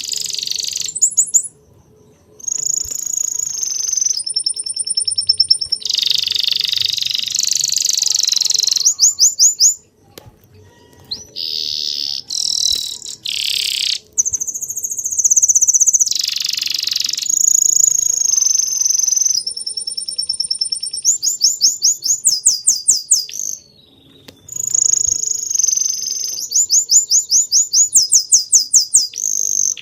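Songbirds singing loud, high-pitched phrases. Some phrases are rapid trills of repeated notes. The song breaks off abruptly a few times and then resumes.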